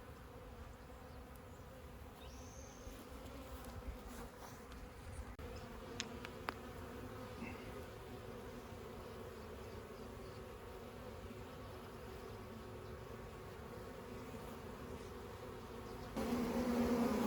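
A honey bee colony humming steadily in a log hive. The buzz grows clearly louder about a second before the end, with a couple of faint clicks near the middle.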